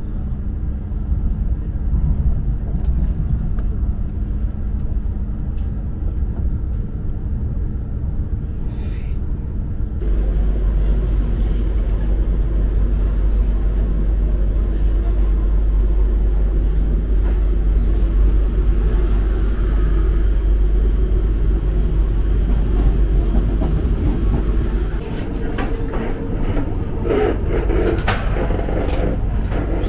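KTM ETS 93 Class electric multiple unit running along the line, a steady low rumble. About ten seconds in it switches abruptly to a heavier rumble, and near the end short knocks and rattles come in over it.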